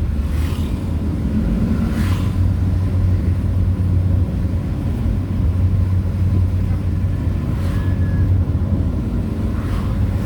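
A motor vehicle driving along: a steady low engine and road hum, with a few brief hissing swells from passing traffic or wind.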